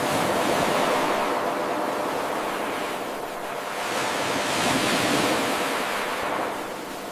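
Ocean surf: waves washing in as a continuous rushing noise that swells twice and eases between the swells.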